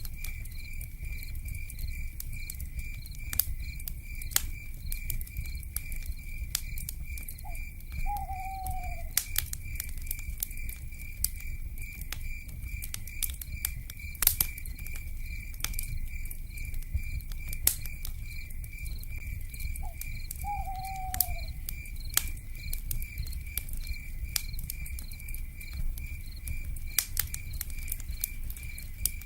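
Crackling fire with frequent sharp pops over a low rumble, against a steady, fast-pulsing cicada chorus. An owl gives a short hoot that falls in pitch about eight seconds in and again about twenty seconds in.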